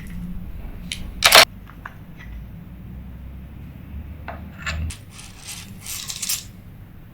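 Metal clinks and handling noises from a spinning reel and small tools: one sharp clink about a second in, a few lighter ticks, then a short rustling scrape around five to six seconds in.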